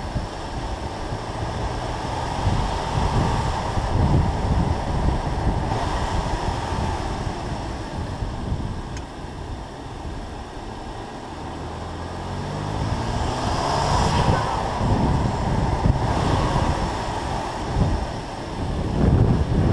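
BMW M2 Competition's twin-turbo inline-six running under heavy wind buffeting on the microphone and road noise as the car drives downhill. About two-thirds of the way in the engine note rises in pitch as the car accelerates.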